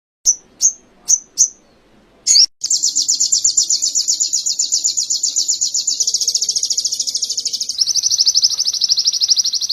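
Ruby-cheeked sunbird singing canary-style song: a few short high chirps, then a long, loud trill of fast repeated high notes that switches to a slightly lower roll about eight seconds in.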